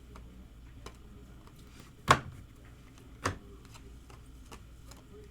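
Trading cards being handled and flipped during a pack break: scattered light ticks, with two sharp snaps about two and three seconds in.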